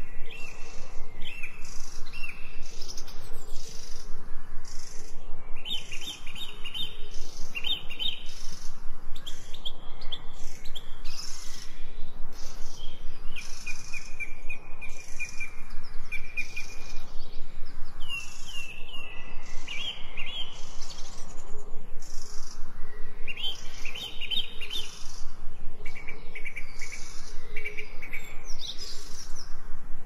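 Songbirds singing: repeated short chirps and trilled phrases at several pitches, one longer even trill about halfway through, over a steady background hiss.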